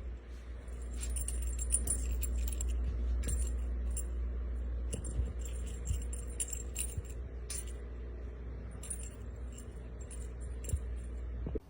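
Small metal jingling in irregular clusters, over a steady low rumble.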